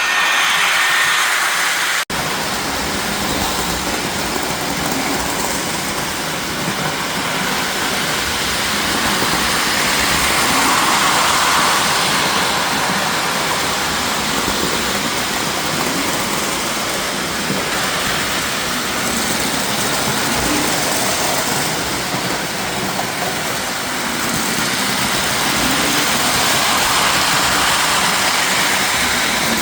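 Lionel toy train running on its track: a steady rumble and whir of wheels and motor that swells about ten seconds in and again near the end as the train comes by. There is a brief break about two seconds in.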